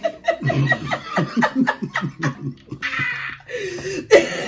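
Laughter: a quick run of rhythmic laughing pulses, then a breathy burst of laughing near the end.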